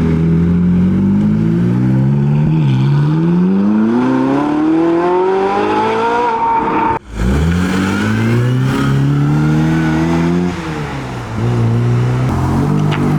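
High-performance car engines accelerating hard, the pitch climbing steeply through the revs with a brief dip at a gear change. The sound breaks off suddenly about halfway through and another car's engine picks up, falling back briefly before climbing again near the end.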